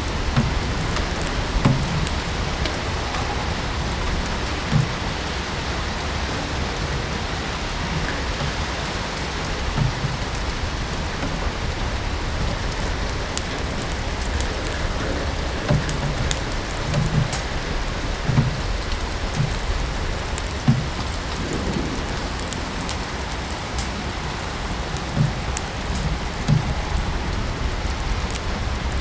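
Steady rain mixed with a crackling wood fire: a constant hiss of rain, scattered sharp crackles and short low pops from the fire.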